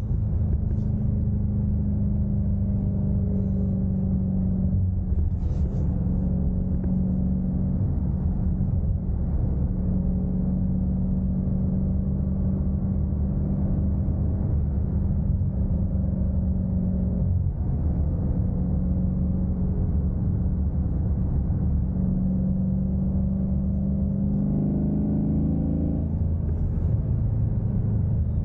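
Dodge Durango SRT 392's 6.4-litre HEMI V8 running while driving, a steady low drone. The note holds fairly even, with a short rise in pitch that falls away again near the end.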